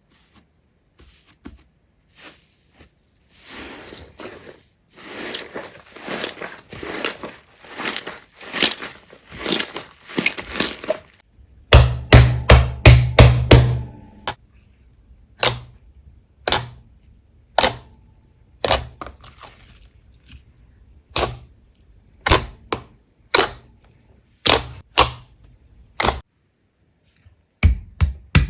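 Slime being handled: quiet crackling, then about two seconds of loud deep pops, then single sharp pops about once a second.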